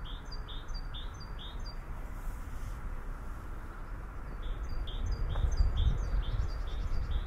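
A songbird singing a quick repeated two-part note, about two a second: one run in the first two seconds and another from about four and a half seconds in. Under it is a steady faint hiss of open air, and a low rumble grows louder in the second half.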